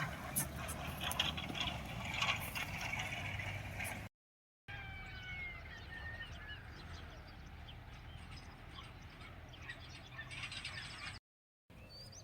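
Birds chirping and trilling over a steady low hum, in short clips that cut off abruptly twice. The first few seconds are noisier, with scattered clicks.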